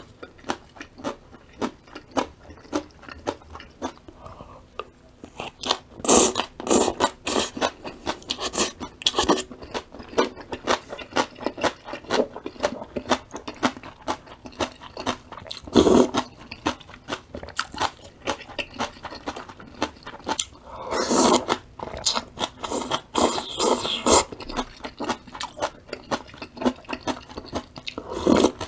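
A person chewing and biting crunchy sweet potato stem kimchi: a steady run of crisp chewing clicks, about two to three a second, with several louder, noisier bursts spread through.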